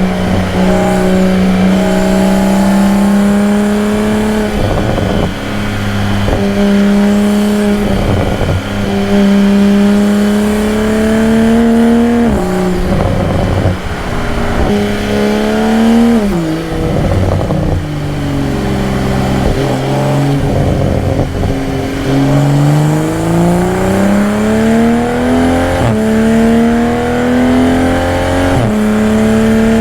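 2022 Toyota Supra's engine, exhaust and intake under way while driving. The engine note holds steady, falls off sharply twice midway as the revs drop, then climbs steadily with a couple of short breaks near the end as it accelerates.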